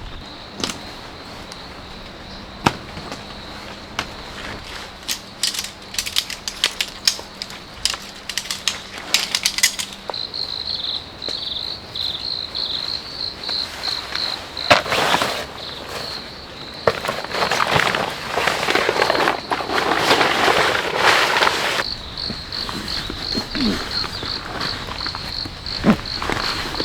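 Crickets trilling steadily in a high, pulsing chirp. Over it come a run of sharp clicks and taps, then several seconds of loud rustling.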